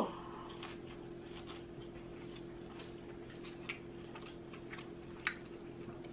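Faint, close-miked chewing of fried chicken tenders: irregular small clicks and crunches from the mouth over a steady hum. It opens on the end of a short, falling vocal sound.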